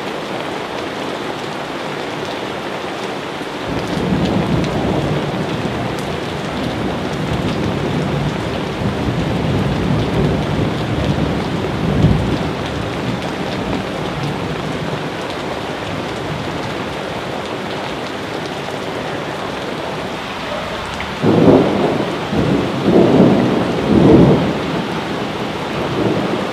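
Steady rain with rolling thunder. A long rumble builds a few seconds in and peaks briefly about halfway. Several louder thunder peaks come close together near the end.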